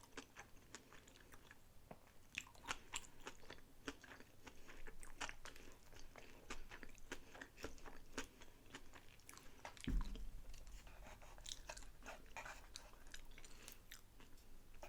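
Close-miked chewing of sushi rolls, with many short, sharp wet mouth clicks. A single low thump sounds about ten seconds in.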